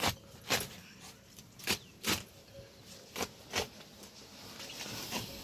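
A series of about eight short knocks or scuffs, several falling in pairs about half a second apart.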